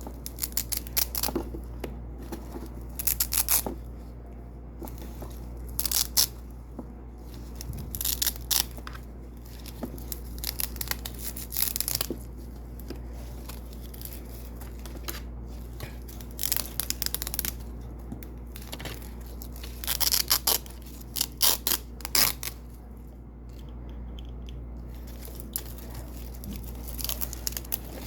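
Double-sided Velcro being peeled off white hook strips: short, crisp crackling rips in clusters, repeated every second or two, over a faint low hum.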